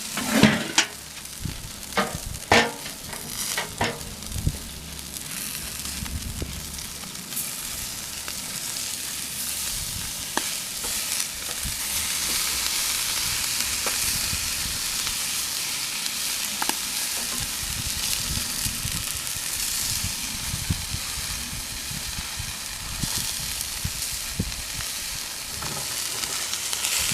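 Meat sizzling on a hot charcoal grill, a steady hiss that builds up after a few knocks and clatters in the first four seconds.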